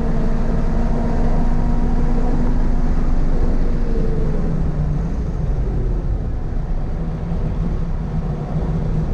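Toyota GR86's 2.4-litre flat-four running at high revs under load, its note dropping to lower revs about halfway through as the car slows, over steady road and wind noise.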